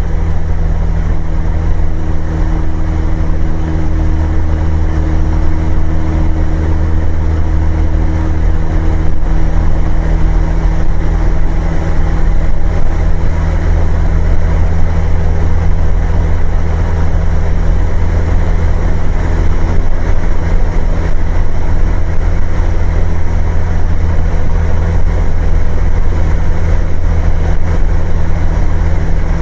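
Cessna light aircraft's piston engine and propeller droning steadily in flight, heard from inside the cockpit.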